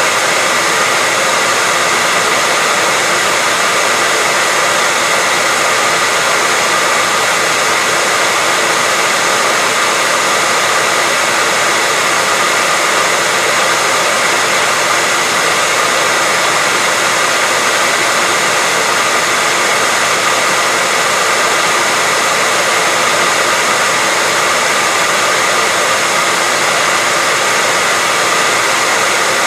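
Hair dryer running steadily: a constant rush of blowing air with a faint, even motor whine, unchanging throughout.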